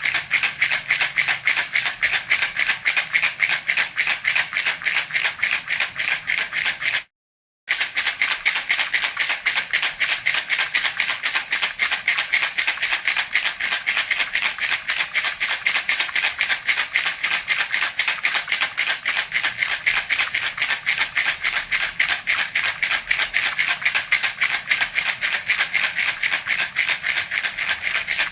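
A baby's hand rattle (jhunjhuna) shaken in a fast, even rhythm, its beads rattling crisply. The rattling stops dead for under a second about seven seconds in, then carries on.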